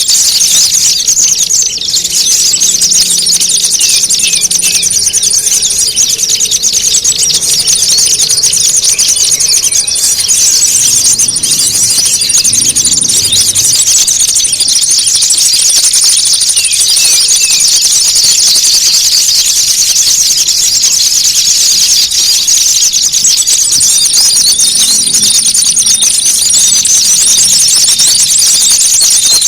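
Loud, dense chattering and squeaking of many small songbirds calling at once without a break: a noisy bird-lure track imitating agitated, squabbling small birds to draw others in. A thin, high steady tone comes and goes above the chatter.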